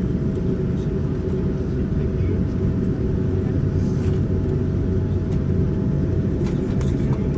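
Airliner cabin noise inside a Boeing 787-9 on the ground before takeoff: a steady low rumble with a constant hum from the engines and cabin air, with no change in power.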